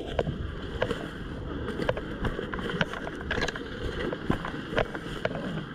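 Low, rumbling wind and handling noise on a body-worn action camera's microphone, with scattered irregular clicks and taps.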